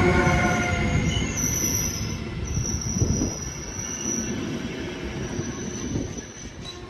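Train rolling through a station with its wheels squealing in high thin tones over a low rumble. A pitched electric whine fades out in the first second, and the whole sound slowly dies away.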